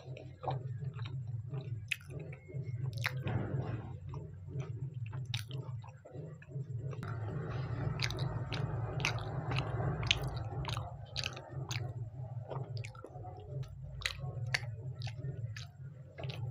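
Close-up mouth chewing of soft, syrupy white gulab jamun, with many short wet mouth clicks and a denser stretch of squishy chewing in the middle. A steady low hum runs underneath.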